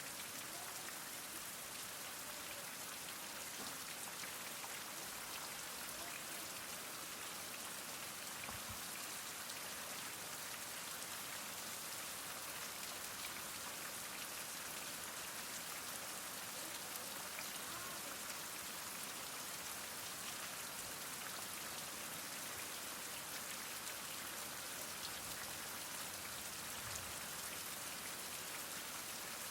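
Heavy rain falling steadily, a dense even hiss of drops with fine individual patters on a surface.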